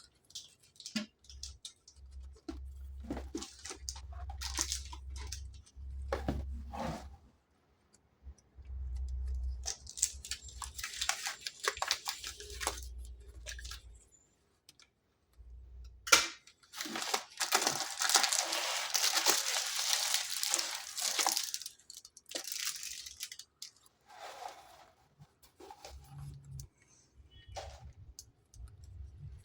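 Packaging from a miniatures box being handled, crinkled and torn open: scattered rustles and knocks, then stretches of tearing. The longest and loudest stretch starts with a sharp snap about halfway through and lasts around five seconds.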